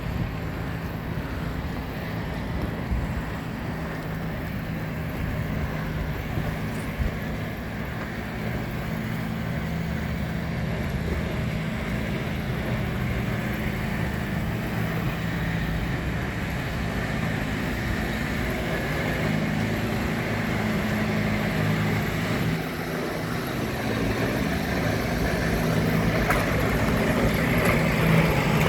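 Engine running steadily at low revs with outdoor vehicle noise around it, getting louder over the last few seconds.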